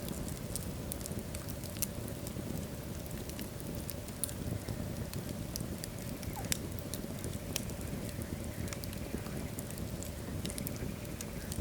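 Wood logs burning in a fireplace: a steady low rumble of the flames with frequent sharp crackles and pops, and one louder pop past the middle.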